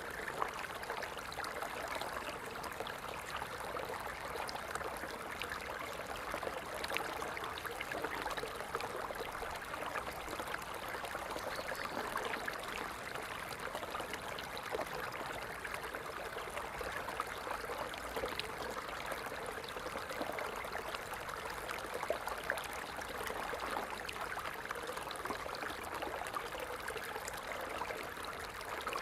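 Water falling and splashing steadily, with many small droplet splashes and no let-up.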